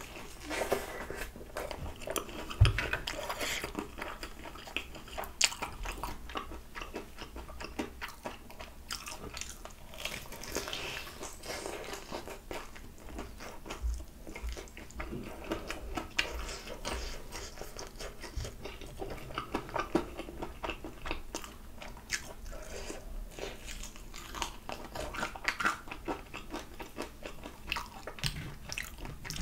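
Biting into and chewing a crispy fried chicken drumstick: crunching of the fried coating and chewing, with many small irregular crackles.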